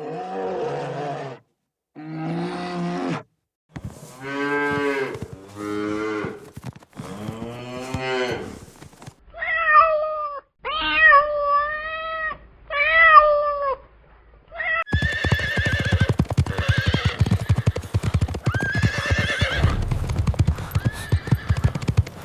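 A string of animal calls: a cow mooing several times in long, low calls, then a cat meowing four times. About two-thirds of the way through this gives way to a louder, rapidly pulsing animal call.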